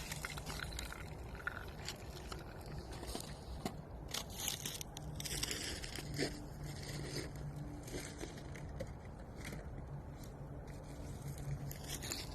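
Chunks of ice skidding and scraping across frozen lake ice, making irregular sharp clicks and scrapes, with a faint steady low hum underneath.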